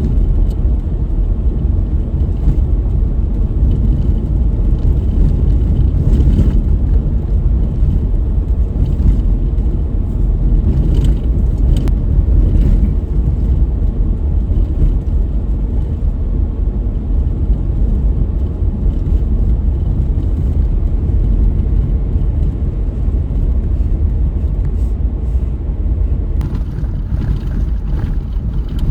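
Steady low rumble of a car being driven on a road: tyre and engine noise with no change in pace, and a few faint brief knocks.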